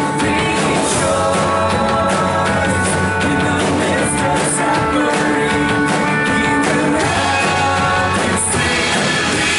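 Live worship band playing a rock-style song, with drums, guitars and sustained chords and some singing.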